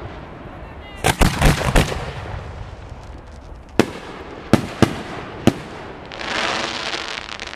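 Aerial fireworks shells bursting: a quick cluster of sharp bangs about a second in, then single bangs spaced through the middle, followed by a second or so of dense hissing noise near the end.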